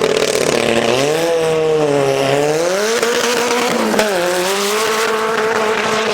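Car engine held high in the revs, its note dipping and climbing before a sharp dip about four seconds in, then steady, with tyre squeal, as from a car drifting.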